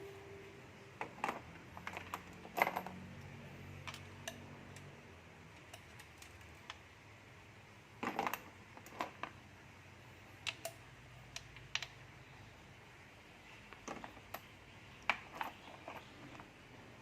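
Scattered light clicks and taps, singly and in small clusters a second or more apart, from tools and small engine parts being handled.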